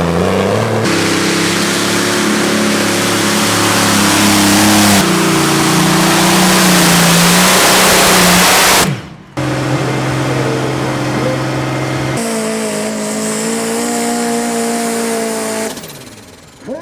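Pulling tractors' engines running hard at full power, in a series of abrupt cuts from one tractor to the next every few seconds, with a brief drop-out about nine seconds in.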